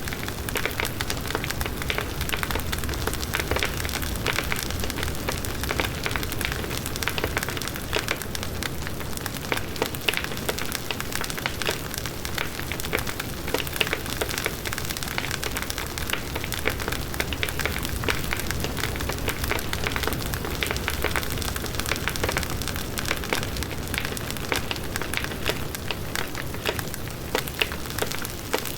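Large wood bonfire burning steadily: a constant rush of flames with dense, irregular crackling and popping of the burning wood.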